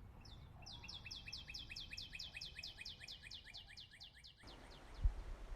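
A songbird singing a fast trill of repeated high, down-slurred notes, about eight a second, for about four seconds before it cuts off abruptly. A low thump follows about five seconds in.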